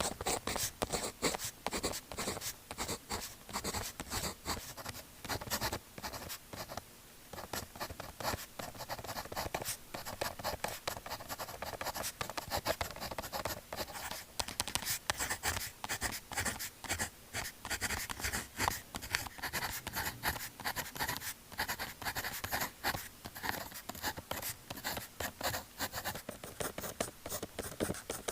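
Pen writing on paper: a quick, continuous run of short scratchy strokes, easing briefly about six seconds in.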